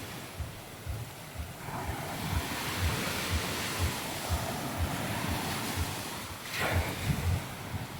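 Surf washing onto a sandy beach, swelling about two-thirds of the way through, with wind buffeting the microphone and short low thumps about twice a second.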